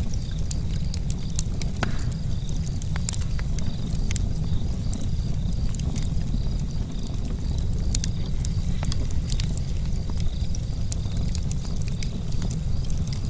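Charcoal campfire crackling, with scattered sharp pops and ticks, over a steady low rumble.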